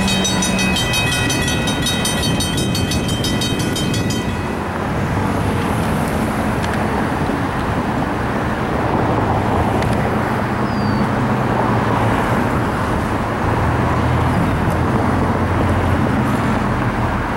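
Union Pacific freight train cars rolling by on the track: a steady rumble and rattle of steel wheels on rail. For about the first four seconds a high, many-toned ringing sits over it, then cuts off abruptly.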